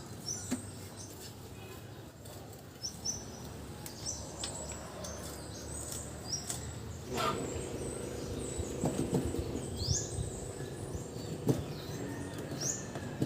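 Small birds chirping: short, quick, falling chirps repeated through the whole stretch. Scattered light clicks and knocks run alongside, and a low steady hum comes in about seven seconds in.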